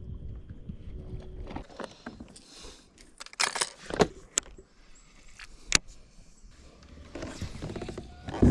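Fishing gear being handled in a kayak: several sharp knocks and clicks against the boat, with light rattling between them, the loudest knock near the end.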